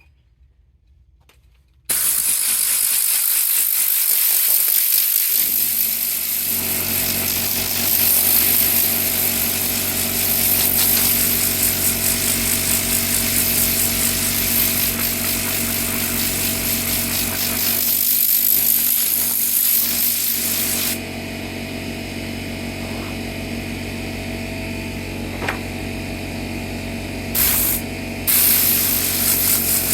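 A power cleaning tool switches on abruptly about two seconds in and runs steadily and loudly, a strong hiss over a steady motor hum. The hiss drops back about 21 seconds in, and the tool keeps running.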